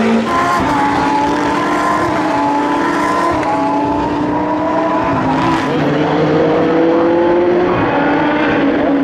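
Several endurance race cars' engines running at once, their engine notes overlapping at different pitches, with some notes slowly rising in the second half as the cars accelerate.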